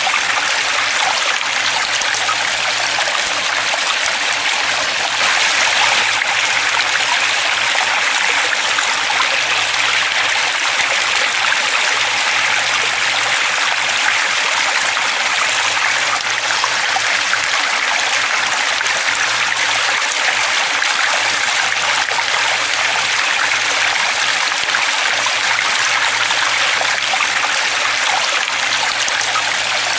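Forest stream flowing with a steady, even rush of water.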